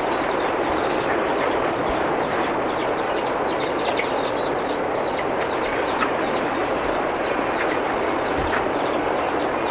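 Heavy rain pouring steadily: a dense, even hiss with scattered sharper drop ticks.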